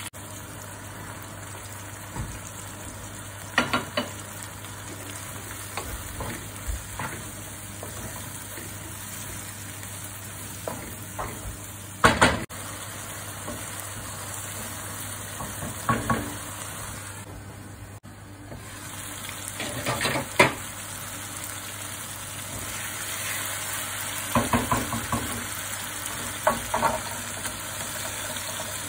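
Sliced onions and tomatoes sizzling in oil in a karahi wok, with a wooden spoon now and then knocking and scraping against the pan as the mixture is stirred.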